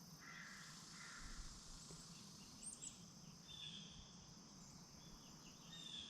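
Faint outdoor ambience: insects, likely crickets, chirring steadily in a high, even drone, with a few short bird chirps near the middle and end and a faint low thump about a second in.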